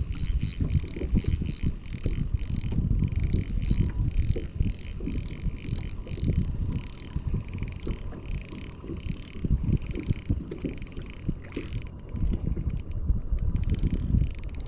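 Shimano Stradic C2000S spinning reel being cranked, a rhythmic whirr of about two handle turns a second, which pauses near the end and then starts again quicker. Wind rumbles on the microphone underneath.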